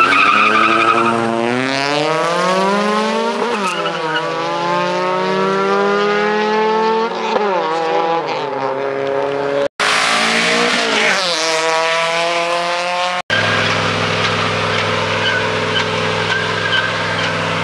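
Cars launching in a drag race: engines revving hard, rising in pitch and dropping back at each upshift, with a short high squeal at the launch. After two abrupt cuts, a vehicle engine idles steadily near the end.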